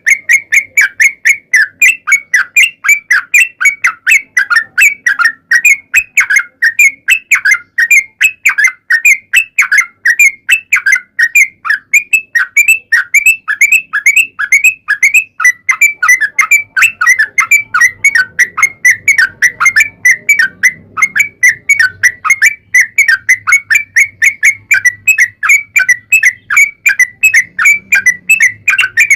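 Yellow-vented bulbul (trucuk) singing a long, unbroken run of short, quick whistled notes, about three a second, the rapid 'ropel' song used as a lure to set other trucuk birds singing.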